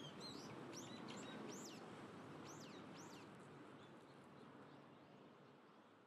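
A bird giving a quick series of short, high chirps that sweep downward, over a faint steady hiss that slowly fades.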